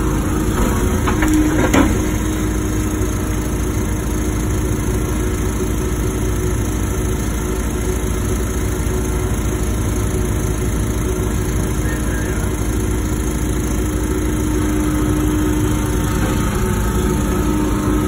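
Wacker Neuson ET145 excavator running steadily under work, with a steady engine and hydraulic hum. A couple of short knocks come between one and two seconds in.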